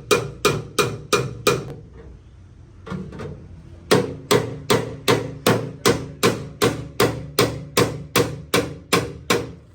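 Hammer blows on car door sheet metal, being beaten out in body repair: a steady run of sharp strikes at about three a second, each with a short ring. They stop about two seconds in and pick up again at the same pace about two seconds later.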